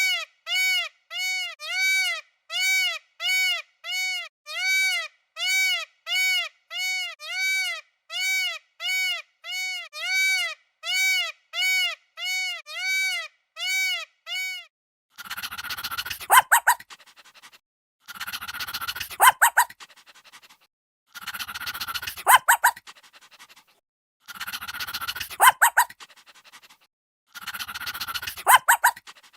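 Animal calls: a high, evenly repeated chirping call about twice a second, then after a pause five harsher, raspier calls about three seconds apart.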